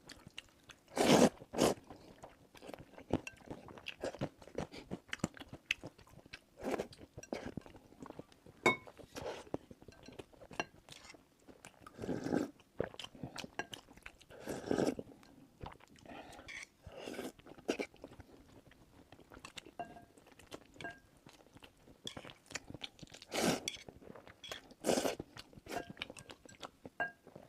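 Close-miked chewing and crunching of a person eating a bowl of hot and sour sweet-potato noodles, with irregular small clicks and a few louder bursts of mouth noise.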